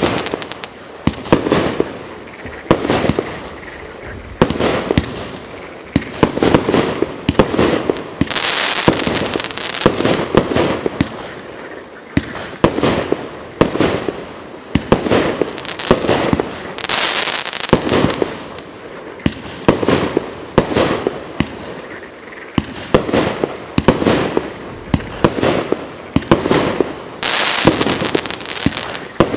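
A 49-shot, 30 mm (1.2-inch) firework cake firing shot after shot. Each shot is a sharp bang, roughly one a second, and several times there is a longer stretch of high crackle from the bursting stars.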